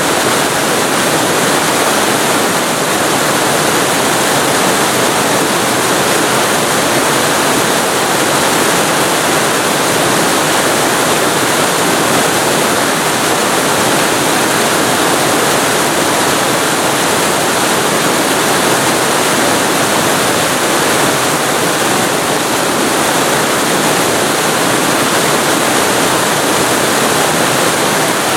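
Waterfall heard from very close: a loud, steady rush of falling water that does not change.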